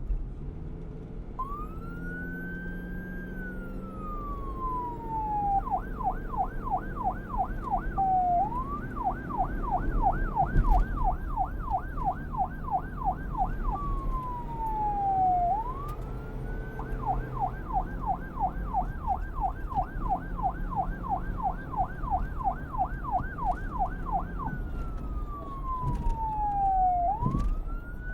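Emergency vehicle's electronic siren, starting about a second and a half in and switching back and forth several times between a slow rising-and-falling wail and a rapid yelp, over a low rumble.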